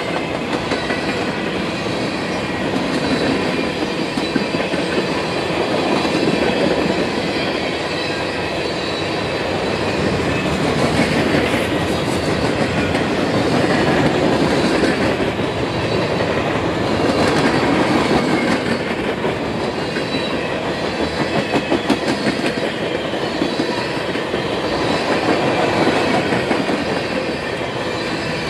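Freight cars of a CSX manifest train rolling past at close range: covered hoppers, then centerbeam flatcars. Steel wheels rumble steadily on the rail with a rapid clickety-clack over the rail joints, swelling and easing every few seconds as the cars go by.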